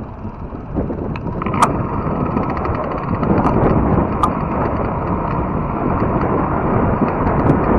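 Wind buffeting the microphone and tyre rumble from a fat-tire electric bike riding along a trail, with scattered small clicks and rattles. The rushing gets louder about three seconds in.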